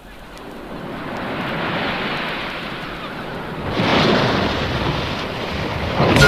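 Ocean surf, waves washing in with no pitch to them, swelling twice, the second wave louder about four seconds in. Band music comes in at the very end.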